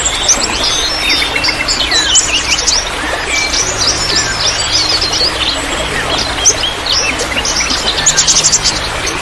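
Many small birds chirping and trilling busily, with overlapping quick notes and rapid trills, over a steady trickle of water.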